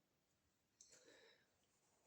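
Near silence: faint room tone with one soft click and a brief rustle a little under a second in.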